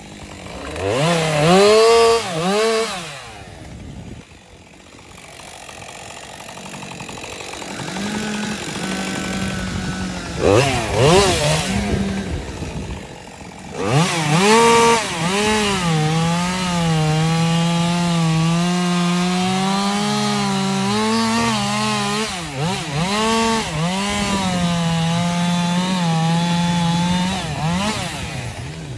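Two-stroke chainsaw revving up and down in short bursts, then running steadily under load through a long cut, its pitch dipping and wobbling as it works through the wood.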